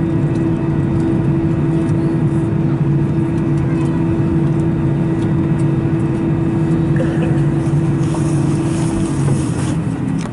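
Steady droning cabin noise inside an Airbus A319 on the ground after landing, with a constant low hum running through it. The hum's strongest tone stops near the end, and the whole sound fades out at the very end.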